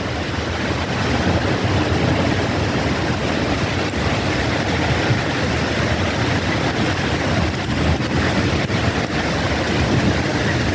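Heavy rain pouring down in a steady rush, with wind rumbling low underneath.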